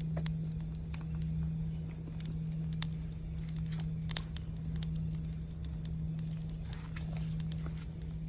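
Campfire crackling, with scattered sharp pops and the loudest snap about four seconds in, over the steady low hum of a singing bowl.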